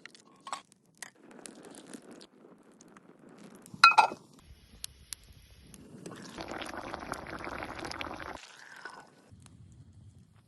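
Cooking preparation handling sounds: scattered light clicks, one loud ringing clink about four seconds in, then about two seconds of steady pouring-like noise.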